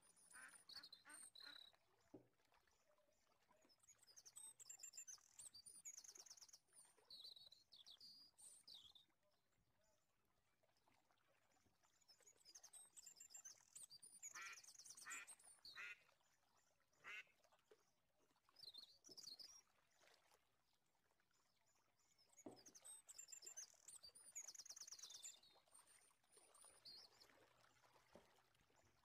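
Faint bird chirps and trills, coming in three spells of a few seconds each over an otherwise near-silent background.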